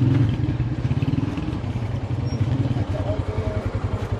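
Motorcycle engine idling, a steady low pulsing.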